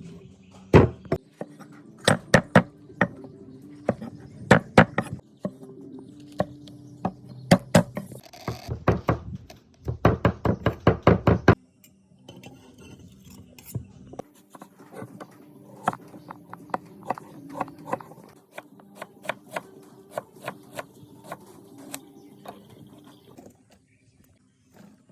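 Knife chopping on a wooden cutting board: loud, irregular chops, with a fast run of about six a second around ten seconds in. For the rest of the time the chopping turns into lighter, quicker taps.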